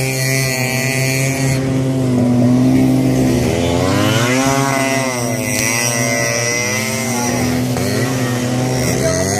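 Yamaha RX-series single-cylinder two-stroke motorcycles running together, more than one engine at different pitches, revving up and easing off between about three and six seconds in.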